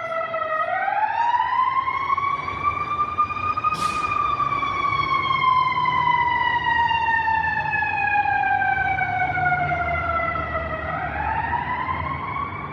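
Fire engine siren wailing with its engine rumbling underneath. The pitch rises over about three seconds, falls slowly over about seven, and starts to rise again near the end. A brief hiss comes about four seconds in.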